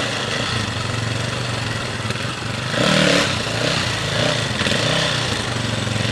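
Dirt bike engine running, with a brief rise in loudness about three seconds in.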